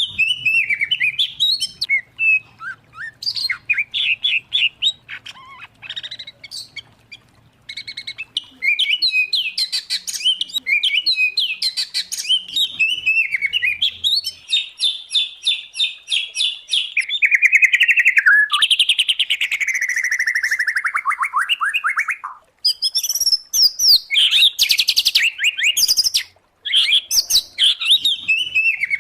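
Songbirds singing nonstop in varied whistled phrases and fast trills: the mixed songs of white-rumped shama, oriental magpie-robin and greater green leafbird. About halfway through comes a long falling trill.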